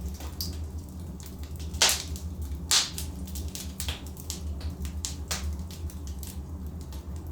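Logs burning in a fireplace, the wood crackling with irregular sharp pops, the two loudest about two and three seconds in, over a low steady rumble.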